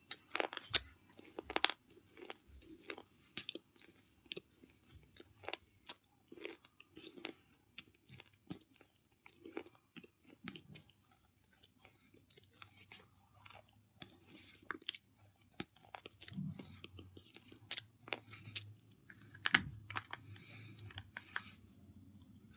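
Close-up biting and chewing of baked clay pieces: dense, irregular sharp crunches and crackles, with a few louder snapping bites, the loudest about twenty seconds in.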